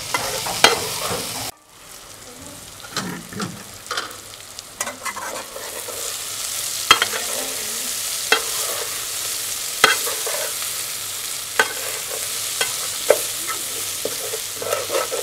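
Vegetables frying in an aluminium pot, hissing steadily, while a metal slotted spatula stirs them and scrapes and clinks against the pot's sides again and again. The hiss drops away briefly about a second and a half in.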